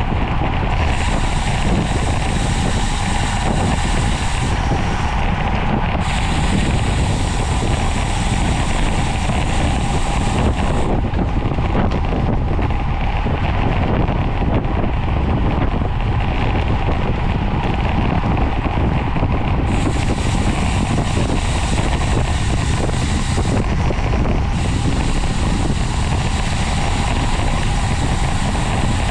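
Steady wind rush over the microphone of a bicycle rider racing at speed, with a higher hiss that comes and goes several times.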